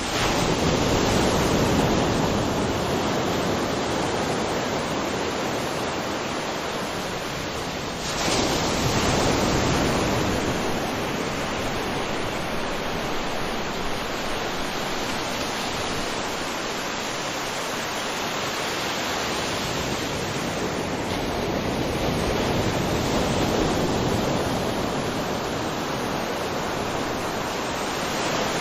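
Ocean surf washing onto a beach: a continuous wash of breaking waves that swells and eases slowly, with stronger surges about 8 s in and again near 23 s.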